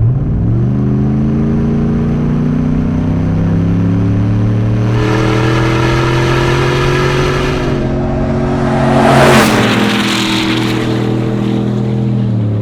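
Supercharged 6.2-litre V8 of a GMC Sierra pickup running under throttle, its pitch climbing slowly and dropping back near 8 s. A loud whoosh of the truck passing close comes around 9 seconds in. The engine note falls again near the end.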